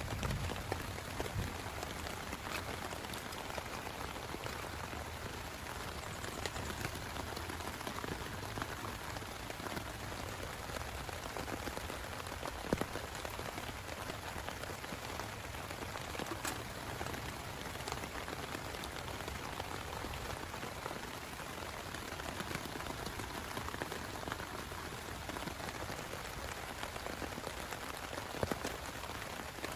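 Steady heavy rain, with many separate drops tapping sharply on a nearby surface. The low tail of a thunder rumble dies away at the very start.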